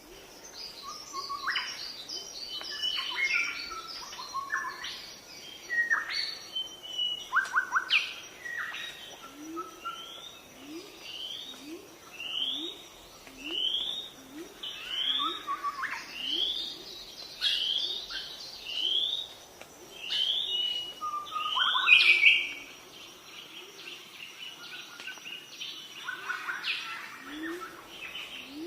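Several birds chirping and calling over one another, with short whistled notes and a run of quick rising calls repeated about once a second through the middle; one sharp loud call about three quarters of the way through. A faint steady high tone runs underneath.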